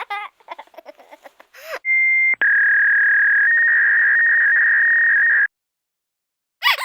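A young child's voice for the first couple of seconds, then a loud, steady, high-pitched electronic beep lasting about three and a half seconds, briefly broken once near its start, that cuts off suddenly.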